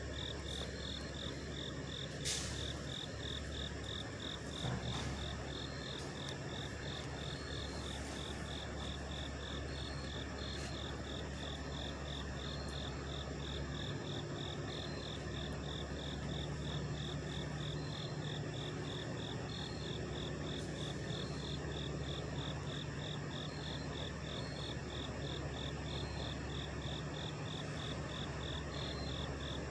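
Several idling truck engines make a steady low hum. Over it, a high chirp pulses at an even rate throughout. There is a single sharp click about two seconds in.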